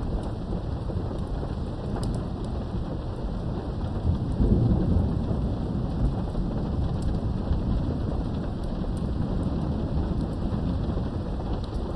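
Steady rain with a rumble of thunder swelling up about four seconds in and dying away over the next couple of seconds, with scattered drops ticking throughout.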